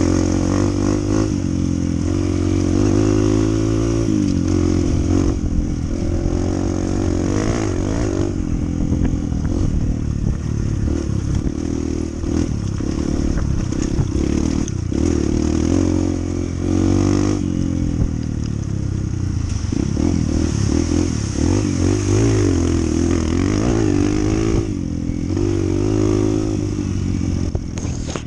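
Honda CT125's single-cylinder four-stroke engine running while the bike is ridden, its pitch rising and falling repeatedly with throttle and gear changes.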